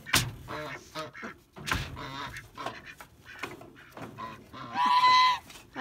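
Domestic geese and ducks calling: scattered short honks and quacks, with a longer, louder honk about five seconds in. A couple of sharp knocks come near the start.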